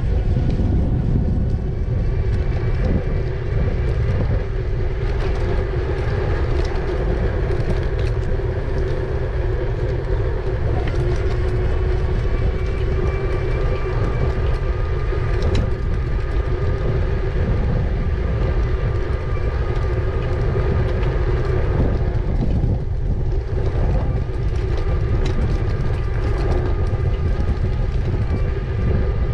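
An e-bike being ridden: heavy wind buffeting on the microphone with a steady, even whine from the bike's electric motor.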